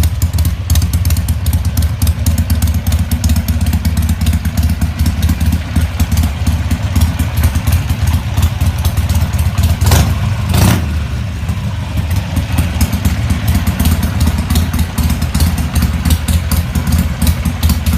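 2007 Harley-Davidson Sportster Nightster's 1200 cc V-twin idling with a steady, rapid pulse. A short burst of louder noise about ten seconds in, then the idle carries on.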